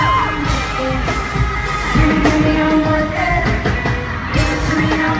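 Live pop concert heard from the audience: amplified music with a steady bass pulse and singing, with fans yelling and screaming along.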